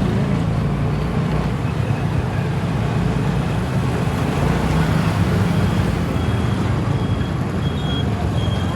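Steady running and road noise from a scooter riding through city traffic. From about six seconds in, a faint high beep repeats about once a second.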